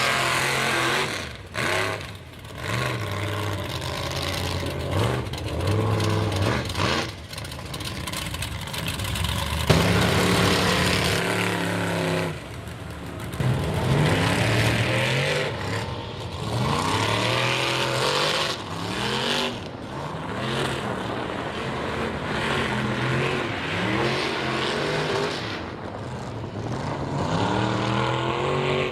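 High-horsepower mega mud truck engine with open headers, revved hard again and again, its pitch rising and falling with each blip of the throttle.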